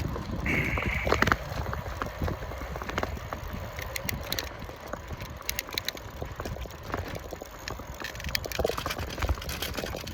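Trek FX1 hybrid bicycle ridden at speed: steady low rumble of tyres and wind on the microphone, with scattered small clicks and rattles. A brief high tone sounds about half a second in.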